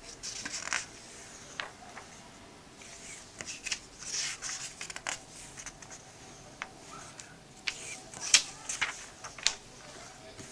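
Paper rustling and light clicks as a comic book is handled and its pages turned, in irregular short swishes with a sharper snap about eight seconds in.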